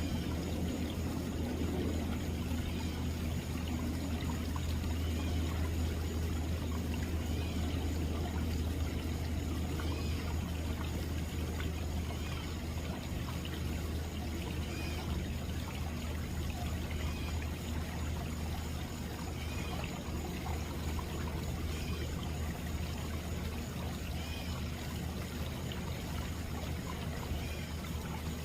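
Backyard pond waterfall, water pouring and splashing steadily, with a low steady rumble underneath.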